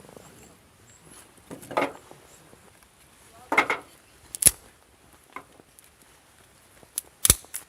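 Scattered handling noises: a few short rustling bursts and sharp knocks or clicks, the sharpest about four and a half seconds and seven seconds in.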